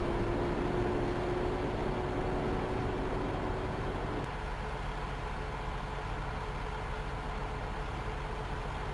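Heavy diesel truck engine running steadily, with a higher steady hum that cuts off about four seconds in.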